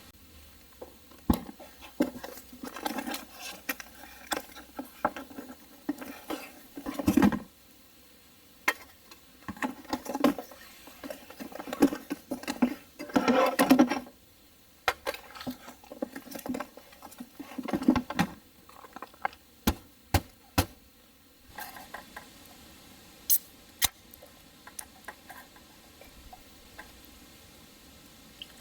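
Camp cooking-gear handling: irregular clinks and knocks of cookware and utensils mixed with rustling. The busiest stretches come about a third and halfway through, with a few sharp clicks near the end.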